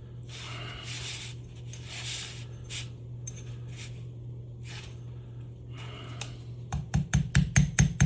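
Metal scraping and light clinking as a snap ring is worked into the bore of a tape-machine spooling motor. Near the end comes a quick run of sharp metallic taps, about six a second, as the ring is tapped down into its groove.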